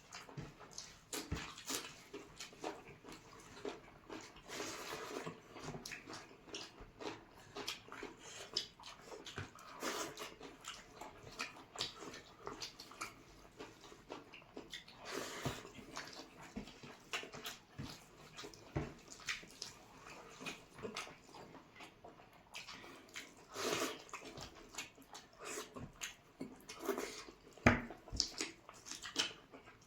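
Close-up eating sounds from chicken curry and rice: wet chewing, mouth smacks and slurps come as irregular bursts of small clicks, with louder clusters every few seconds.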